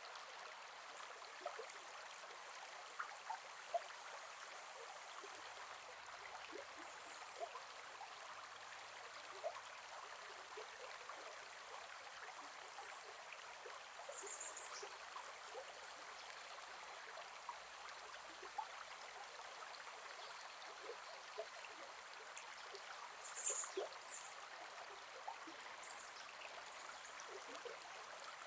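Gentle forest river flowing: a steady rush of water with many small splashes and gurgles throughout. A few brief high-pitched chirps sound about 14 and 23 seconds in.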